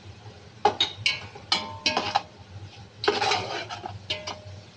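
A utensil knocking and scraping against a metal pan while ingredients are stirred: a string of sharp clinks, some leaving a short metallic ring, with a cluster of scraping about three seconds in.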